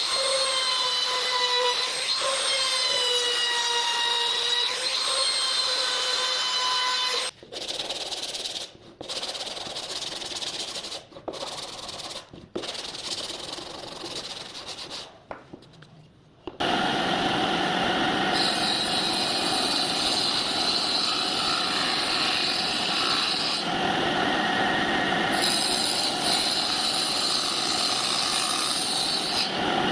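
Electric power tools working wood. A motor whines for about seven seconds, its pitch wavering under load. Then comes a stretch of quieter, broken noise with short gaps, and from about sixteen seconds in a tool runs steadily.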